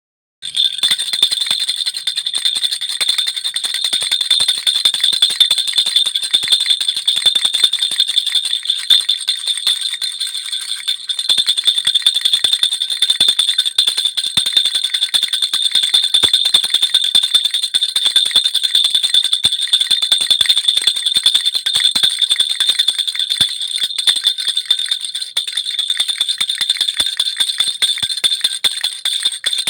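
Baby rattle (jhunjhuna) shaken continuously: a steady high jingling made of fast, dense little clicks and ringing, starting about half a second in.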